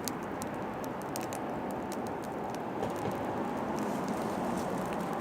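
Oak firewood burning, crackling with frequent irregular sharp pops over a steady rushing background.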